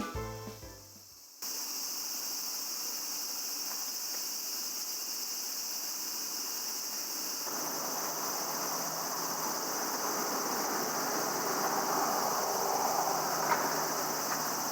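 Night insects chirring in a steady high-pitched drone that starts abruptly just over a second in. From about halfway, a soft rushing noise builds underneath it, with a couple of faint clicks near the end.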